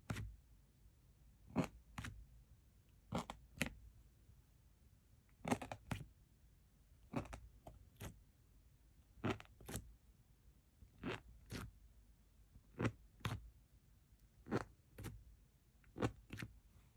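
Slime being pressed and folded by hand, giving sharp popping squelches in pairs about every two seconds as trapped air bursts out.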